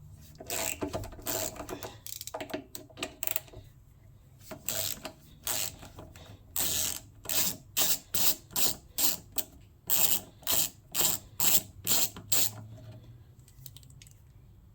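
Ratchet wrench being worked back and forth to undo a fastener on a small engine: a few irregular strokes, then a steady run of ratcheting strokes about three a second that stops a couple of seconds before the end.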